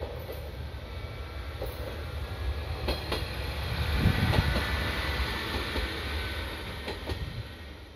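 A diesel track-inspection train passing close by: a low engine and running rumble with wheels clacking over rail joints, loudest about four seconds in, then fading as it moves away.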